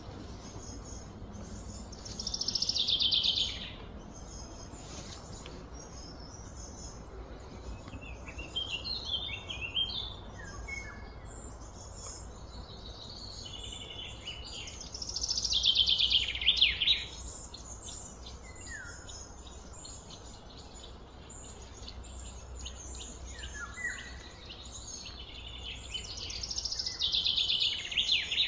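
Birds calling outdoors: a loud, falling, trilled phrase comes three times, roughly every twelve seconds, with shorter chirps in between, over steady low background noise.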